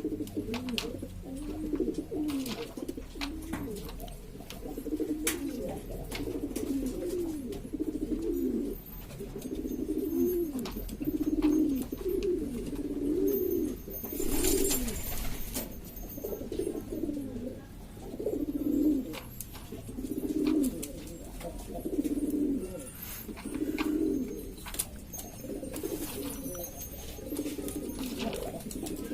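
Several domestic pigeons cooing continuously, their low rising-and-falling calls overlapping one another, with scattered clicks and a brief rustling noise about halfway through.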